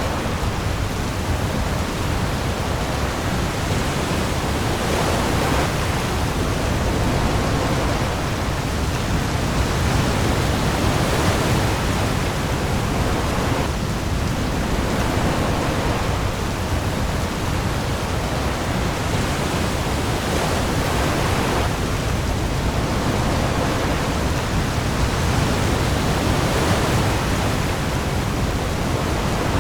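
Heavy rain pouring on the sea surface with waves washing, a dense steady hiss over a deep low rumble. Slightly louder surges of wash come every few seconds.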